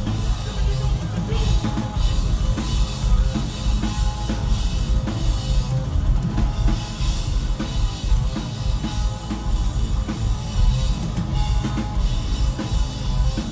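Loud live metal band music led by fast drumming on a drum kit, with rapid bass drum and snare hits over a continuous wash of amplified instruments.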